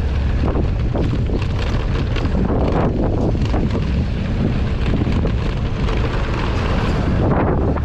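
Wind buffeting the microphone over the low, steady rumble of a vehicle on the move.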